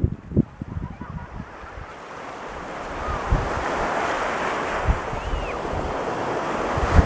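Pacific surf: a wave breaks and washes up the beach, its rush swelling about three seconds in and then holding steady. Wind buffets the microphone in low thumps throughout.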